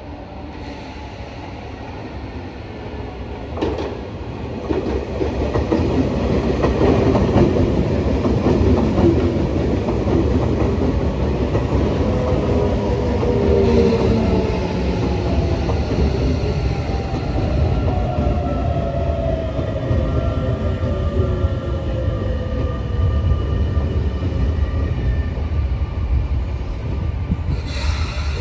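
Electric commuter train approaching and passing close by at trackside: a building rumble with wheels clattering over the rails and one sharp click about four seconds in. Over the second half, a motor whine falls steadily in pitch.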